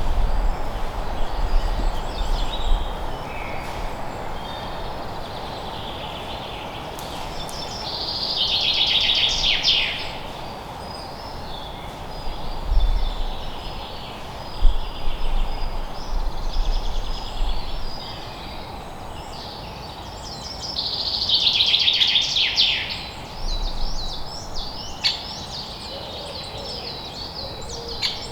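Forest birds singing: repeated high chirping and trilling phrases, loudest at about 8 and 21 seconds in, over a steady background hiss with occasional low rumbles.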